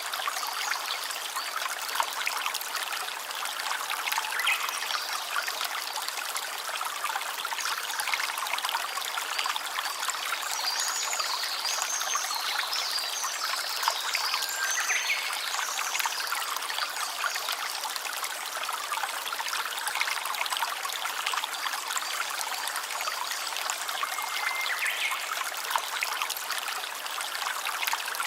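Small stream trickling and babbling steadily over stones, with a few short high chirps about midway.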